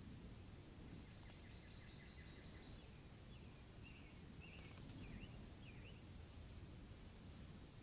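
Faint, distant songbird calls over low background noise: a quick trill about a second in, then a few short rising-and-falling chirps.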